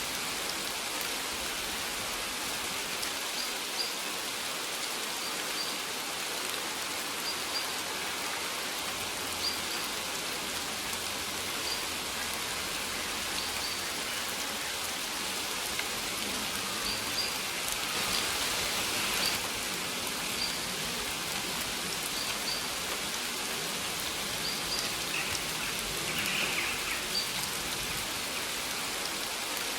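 Steady rain falling, an even hiss. Short high bird chirps repeat every second or two above it, and the rain swells briefly a little past halfway.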